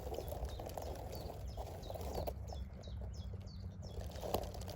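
Rustling and crackling of hedge twigs and leaves being pushed through, with scattered sharp snaps. Over it come many short, high chirps from small birds, each falling quickly in pitch, clustered around the middle.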